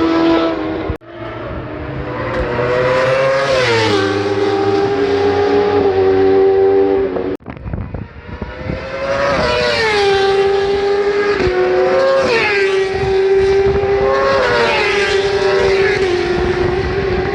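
JSB1000 superbikes, 1000 cc four-cylinder race bikes, running hard past at full throttle. Their engine note climbs and drops back with each upshift, several times over, with two short sudden drop-outs, about a second in and just past seven seconds.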